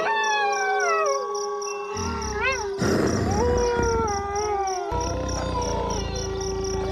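A pack of wolves howling in chorus: several overlapping howls at different pitches, some sliding downward, one held steady and low, with a short rising-and-falling yip about two and a half seconds in. Crickets chirp in an even pulse behind them.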